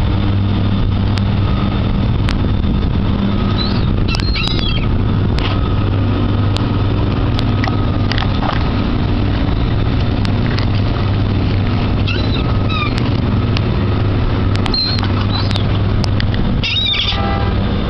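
Steady low hum of a boat engine idling, with seagulls giving short calls a few times over it.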